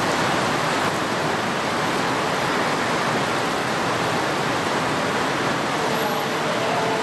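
Heavy typhoon rain pouring down in a steady, even rush, with a faint steady tone near the end.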